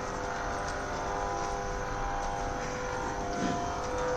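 Steady mechanical drone of railway machinery, with a constant hum of several tones held throughout and no pitch change.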